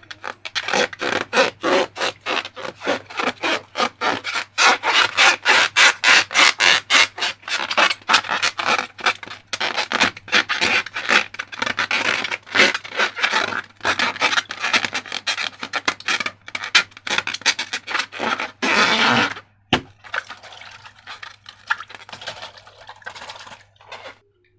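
Slime being worked in rapid, rhythmic scraping strokes, about three to four a second. Near the end comes one longer scrape, then only faint, scattered handling sounds.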